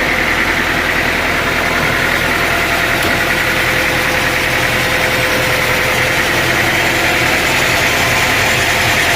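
Sawmill machinery running steadily: an engine-driven drone with a constant high whine that does not change.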